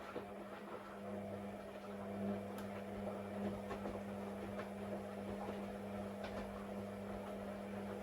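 Steady electric hum from a small mains-powered motor or solenoid, with light scattered clicks; it cuts off abruptly at the very end.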